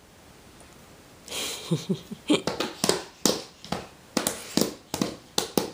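A baby's hands patting and slapping on a floor mat as he crawls: a run of sharp, irregular pats, two or three a second, starting about a second in.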